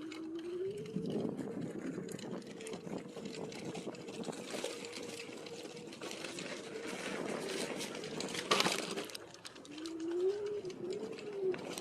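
Bird electric scooter's rear hub motor whining under way, its pitch rising as it picks up speed about a second in, dipping and climbing again near the end, over the rattle and crunch of the tyres on rough, sandy ground. A brief louder burst of noise comes about two-thirds of the way through.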